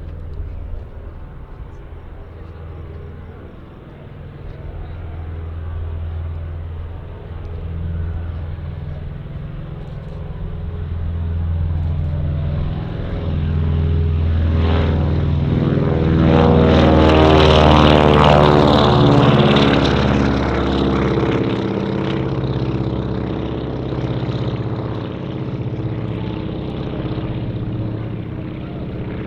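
Propeller-driven airplane flying past. Its engine drone builds to its loudest about two-thirds of the way through, then eases off.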